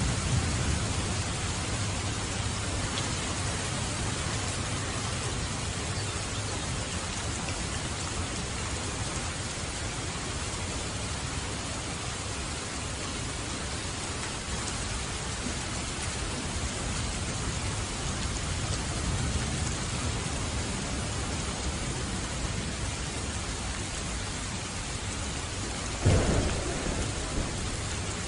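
Steady rain falling, with thunder: a low rumble dying away in the first few seconds, and a sudden thunderclap near the end.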